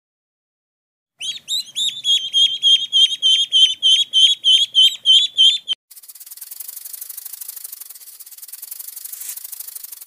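A fast series of short, high, bird-like chirps, about three and a half a second, that stops abruptly. Then a quieter, high, rasping buzz of very rapid pulses.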